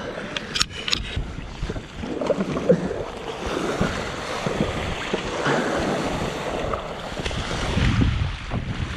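Strong wind buffeting the microphone over choppy sea water splashing and slapping, with a few sharp knocks about half a second to a second in.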